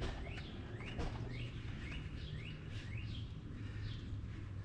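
A small bird chirping over and over: short rising chirps, about two a second, over a steady low hum.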